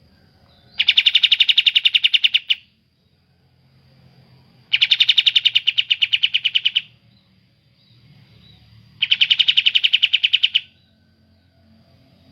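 Bulbul giving three loud, rapid, rattling trills of evenly repeated notes, each about two seconds long, spaced a couple of seconds apart.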